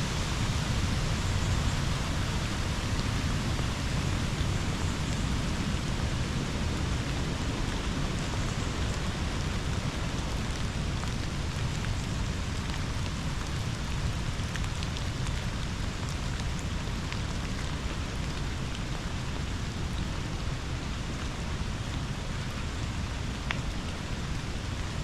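Steady rush of river water and rain falling together: an even hiss over a low rumble, with a few faint drop ticks near the end.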